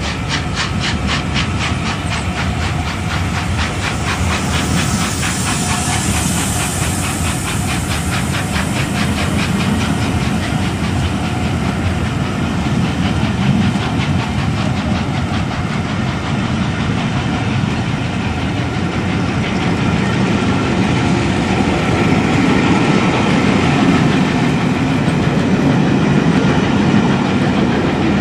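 A train of passenger coaches behind A1 Pacific steam locomotive 60163 Tornado rolling past close by: a steady rumble and hiss of wheels on rail. Rapid, regular clicking runs through roughly the first ten seconds, and the rumble grows a little louder near the end.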